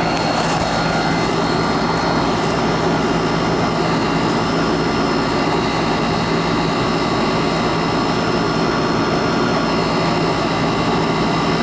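Central air conditioner's outdoor condensing unit running: a steady hum from the compressor with several constant tones over an even rush of fan air, a few faint clicks right at the start.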